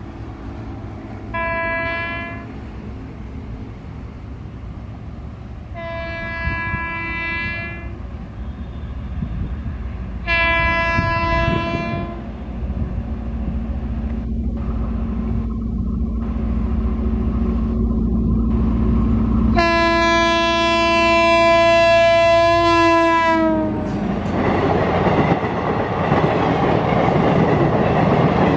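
Diesel-electric multiple unit (DEMU) passenger train approaching with its engine rumbling, sounding its horn four times: one short blast, two of about two seconds, and a long blast of about four seconds whose pitch drops at the end. The train then rushes past close by with a loud clatter of wheels on the rails.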